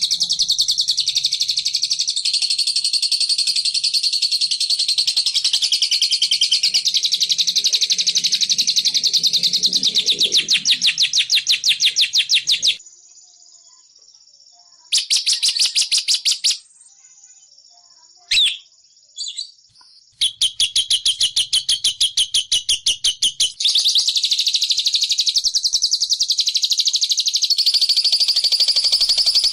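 Bird-call lure recording for bilabu: a rapid, even chattering of high chirps, many per second. It breaks off about 13 s in, with only a short burst and a few single calls, then resumes about 20 s in.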